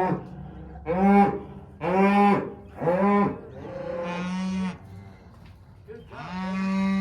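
Cattle mooing: four short calls about a second apart, then two longer, steadier ones, the last near the end.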